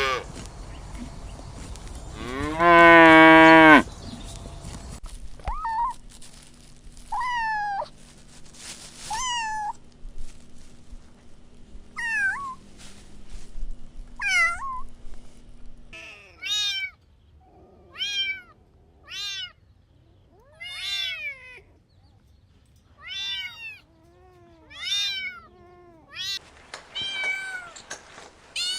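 Kittens meowing again and again: short, high mews about a second apart, more frequent and higher-pitched in the second half. Near the start there is one louder, longer, lower-pitched call.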